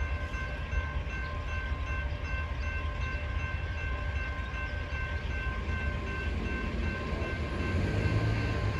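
CSX freight train passing, a continuous low rumble with several steady high tones held over it, getting louder near the end.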